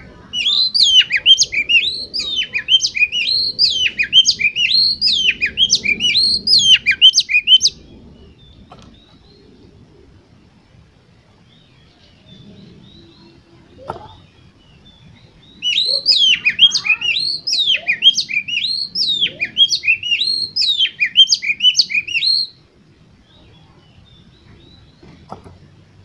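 Oriental magpie-robin singing in two bouts of rapid, repeated whistled phrases, each about seven seconds long, with a pause of several seconds between them.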